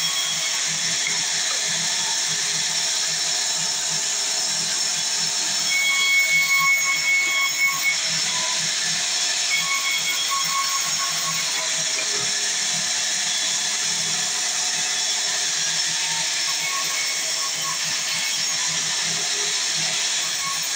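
Sawmill saw running steadily as it cuts wood. About six to eight seconds in, it gives a louder, high-pitched whine.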